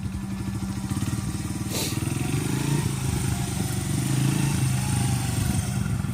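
Small dirt bike engine pulling away at low revs, its pitch rising over the first few seconds and then holding fairly steady, with one short knock about two seconds in.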